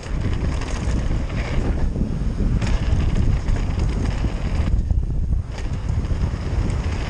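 Wind buffeting a GoPro's microphone over the rumble and rattle of a downhill mountain bike rolling fast over a dirt jump trail. The higher hiss drops away for about half a second around the middle, then returns.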